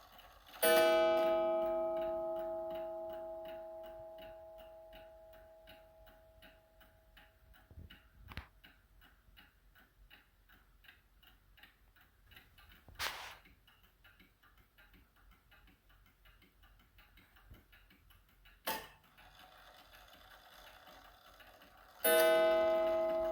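Seth Thomas beehive mantel clock ticking steadily. It strikes once less than a second in, and the ringing tone fades away over several seconds. It strikes once more near the end, with a few sharp clicks in between.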